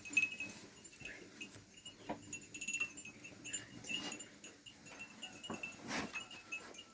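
Sheep bells clinking on and off in short, high ringing notes, with a few scattered light knocks.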